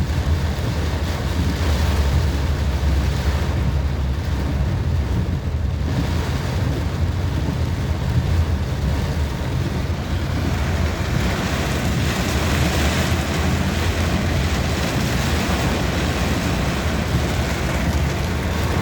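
Steady wind rush over the microphone and road noise from a motorcycle ride in heavy rain, with a deep rumble underneath. The hiss grows brighter about two-thirds of the way through.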